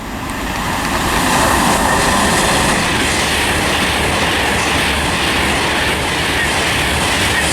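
Class 390 Pendolino electric train passing through the station without stopping, a loud rush of wheel and air noise that builds over the first second or so and then holds steady.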